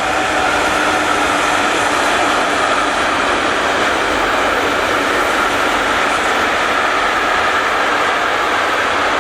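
A train passing close by on the main line: the steady rolling noise of wheels on rail, with a faint steady tone running through it.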